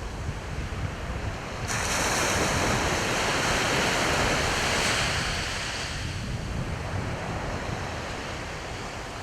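Sea waves washing on the shore, one wave surging in suddenly about two seconds in and ebbing away after about five seconds, with wind rumbling on the microphone.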